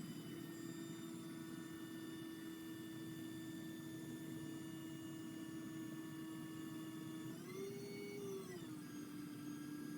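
Electric motor whining steadily at one pitch. About seven seconds in it steps up in pitch for a second or so, then settles lower.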